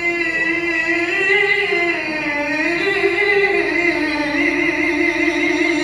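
A male qari reciting the Qur'an in melodic tajwid style, holding one long melismatic note with a wavering pitch that rises and falls through the phrase.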